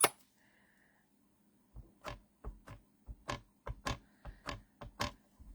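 A photopolymer stamp being inked by tapping it repeatedly against an ink pad: a quick run of light taps, about four a second, starting nearly two seconds in.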